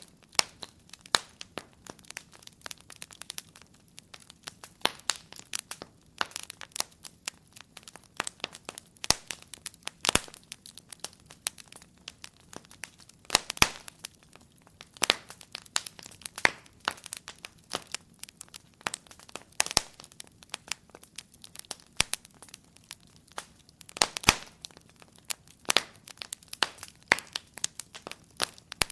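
Wood fire in a fireplace crackling, with irregular sharp pops and snaps, some louder, over a faint hiss of burning.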